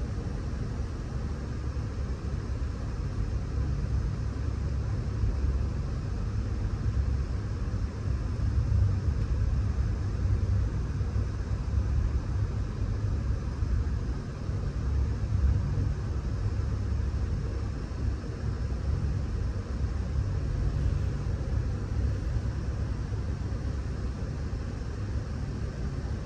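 Steady low rumble of a moving passenger train, heard from inside an Amtrak Superliner coach as it runs along the track.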